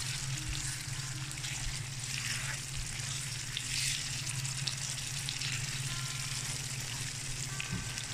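Snakehead (shol) fish pieces sizzling and bubbling in a wet spice paste in a frying pan while being stirred with a silicone spatula, the kosha stage of sautéing the fish in the masala. A steady low hum runs underneath.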